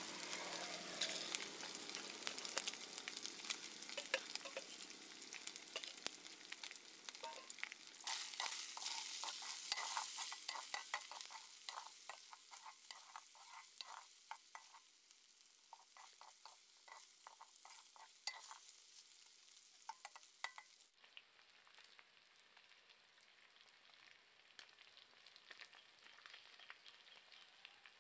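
Eel pieces, sliced onion and green chillies sizzling in hot mustard oil in a metal wok, with a spatula clicking and scraping against the pan as they are stirred. The sizzle is loudest in the first half and grows fainter, dropping to a quiet crackle about twenty seconds in.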